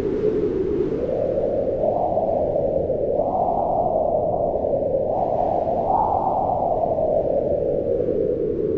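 Howling wind: a steady rush whose pitch climbs in slow gusts and sinks again toward the end.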